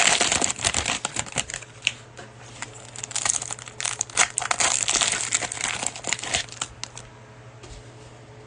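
Cellophane wrapper of a trading-card cello pack crinkling as it is torn open and the cards are pulled out, a dense crackling that dies away about seven seconds in.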